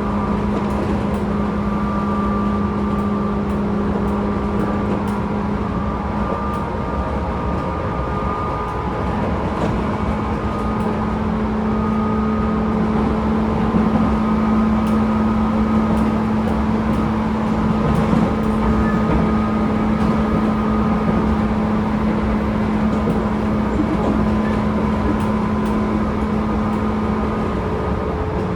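Tobu 10000 series field-chopper-controlled electric train running, heard inside a motor car: rumbling wheel and motor noise under a steady hum that breaks off briefly about six seconds in, comes back slightly higher and stops near the end.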